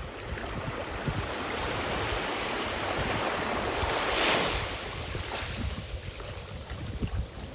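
Ocean waves washing onto a beach: one wave builds, breaks with a hiss about four seconds in, and recedes. Wind buffets the microphone with a low, gusty rumble throughout.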